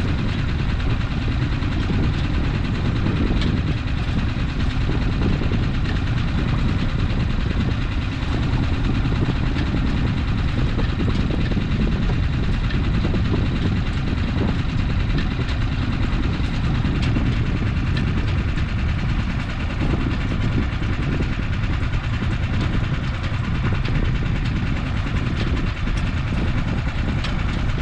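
A sailboat's engine running steadily: a continuous low, even rumble with no change in speed.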